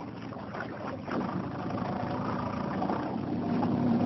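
Small motorboat engine running steadily at low speed, a low hum that grows a little louder after about a second, over water and wind noise.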